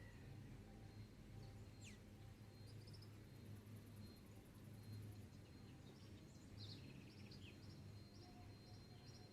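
Faint dawn chorus: scattered bird chirps and calls, one whistle sliding down in pitch about two seconds in, and a steady high insect trill, over a low steady hum.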